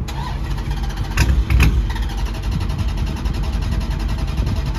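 Dodge Charger Scat Pack's 392 HEMI V8 (6.4-litre) starting up and running, with two louder surges about a second and a half in. The engine had just cut out on its own and comes back with the engine light on.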